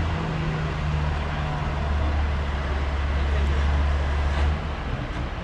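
Large diesel pulling-truck engine idling with a steady low drone that drops away about four and a half seconds in, over a general outdoor noise haze.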